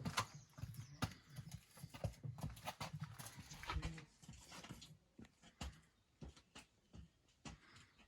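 Irregular footsteps on a rocky trail: knocks, thumps and scuffs of shoes while walking and scrambling, growing fainter and sparser in the second half.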